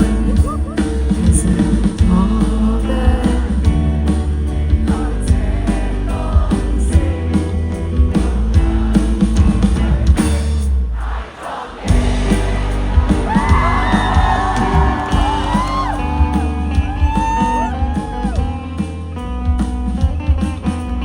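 Live band music with singing. The music drops away for a moment about halfway through, then comes back with the vocal line.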